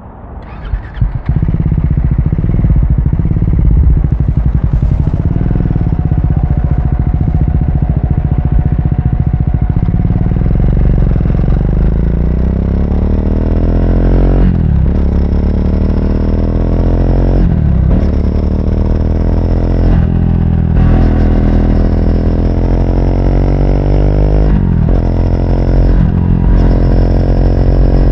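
Triumph Speed 400's single-cylinder engine catching about a second in and then running steadily. From about ten seconds in it accelerates in a series of rising climbs. Each climb breaks off briefly for an upshift.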